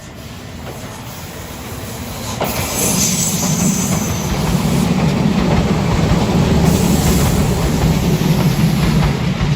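Seibu Railway electric train passing close by. Its sound grows louder over the first couple of seconds, then holds as a loud, steady rumble of wheels on rails as the cars go past.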